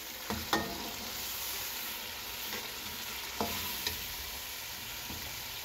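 Diced onion and capsicum frying in masala in a metal karahi, a steady sizzle, while a slotted steel spoon stirs them, with a few sharp clinks of the spoon against the pan.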